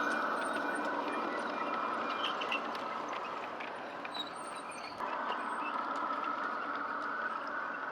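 G-scale model train running on garden track, a steady rumble of wheels and motor that slowly fades, then jumps back louder abruptly about five seconds in.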